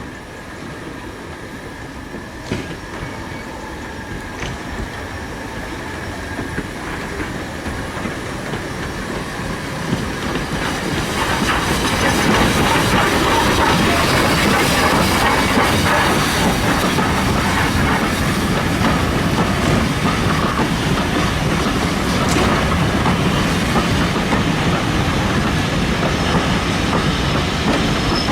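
Steam train double-headed by two former NCB industrial locomotives, getting louder as it draws near and then running past, its wheels clattering over the rail joints.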